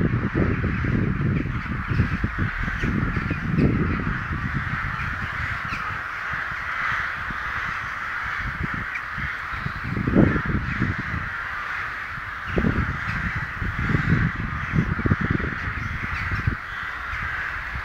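A large flock of crows cawing in a dense, unbroken chorus, with irregular gusts of low rumble on the microphone.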